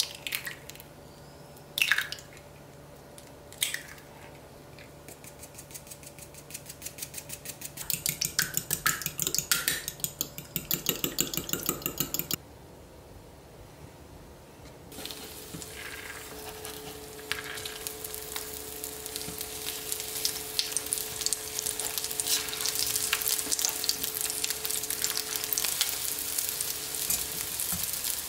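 Eggs cracked against a glass measuring cup with three sharp taps, then beaten with a fast, even clatter. From about halfway through, egg-dipped tofu patties and crab-stick pieces sizzle in hot oil in a nonstick frying pan, the sizzle growing denser as more pieces go in.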